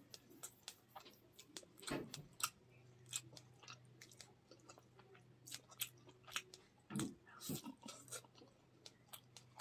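A person biting into and chewing a piece of fried katla fish: quiet wet mouth clicks and smacks, with louder bites about two seconds and seven seconds in.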